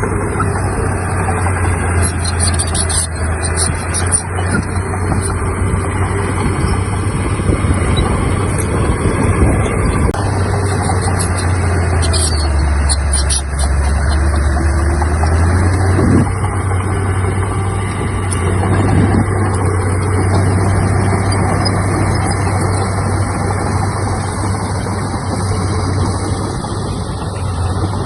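Heavy diesel engine of earthmoving machinery running steadily; its pitch drops for a few seconds about twelve seconds in, then picks back up around sixteen seconds.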